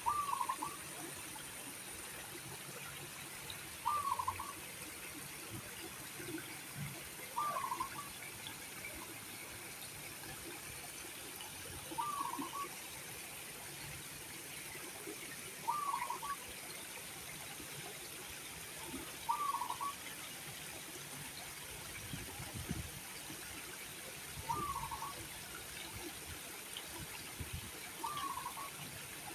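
A short animal call, the same note repeated eight times at a steady pace of about one every four seconds, over a constant background hiss.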